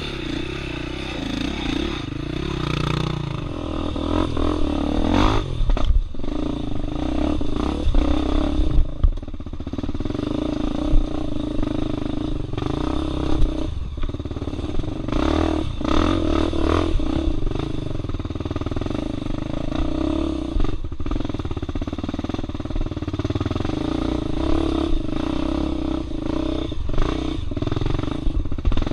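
Dirt bike engine running and revving up and down as it works over rough ground, with several sharp knocks and clatter.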